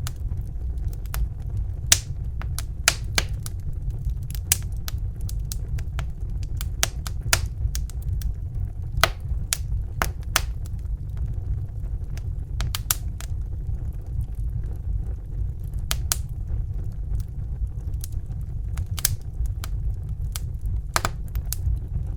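Crackling fire: irregular sharp pops and snaps, some louder than others, over a steady low rumble.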